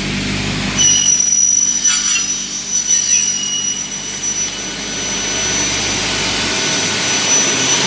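Double-head aluminium cutting saw running with a steady high whine, jumping louder about a second in.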